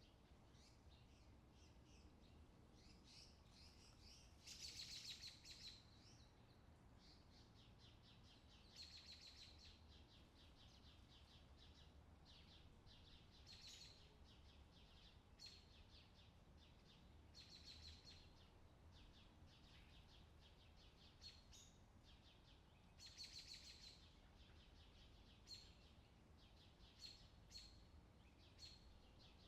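Faint birdsong from an outdoor summer ambience track: short chirps and quick trills come every few seconds over a low steady hum.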